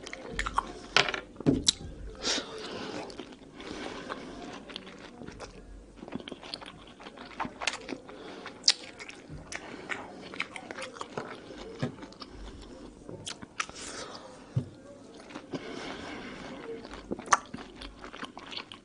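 A person biting and chewing peeled mandarin segments, with many irregular short clicks and crackles.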